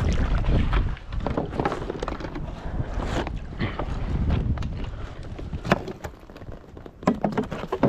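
Wind buffeting the microphone, with scattered splashes and short knocks as duck decoys are pulled from the water and tossed into an inflatable raft. The wind rumble eases about five seconds in.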